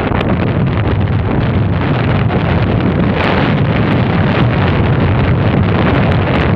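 Strong wind buffeting the camera microphone: a loud, steady rumbling roar with uneven gusts.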